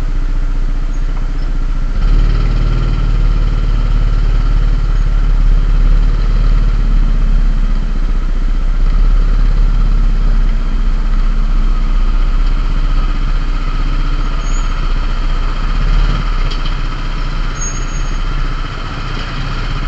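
Vehicle engine running steadily, with a deep continuous rumble.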